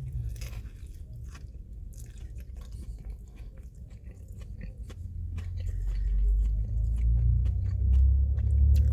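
Close-miked chewing of a fried chicken slider, with crunches and wet mouth clicks. A low rumble builds and grows louder in the second half.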